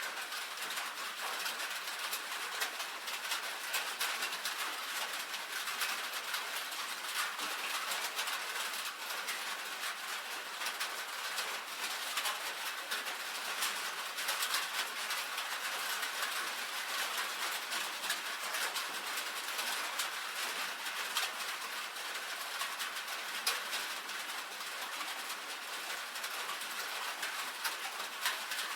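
Steady rain pattering on a tin roof: a dense, even crackle of countless small drop impacts, bright and without any low rumble.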